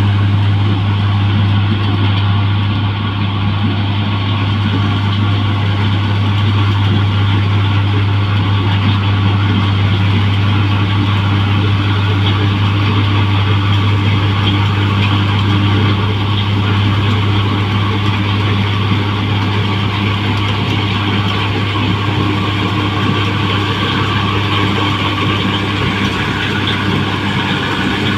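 New Holland 1545 rice combine harvester running steadily, its engine giving a constant deep drone over the even clatter and whir of the machinery.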